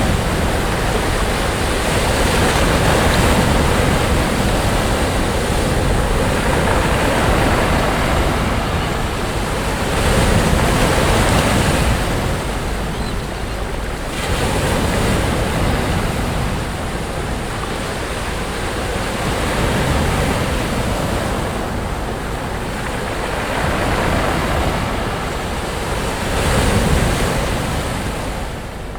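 Sea waves breaking on a beach: a steady rush of surf that swells and eases every few seconds as each wave comes in.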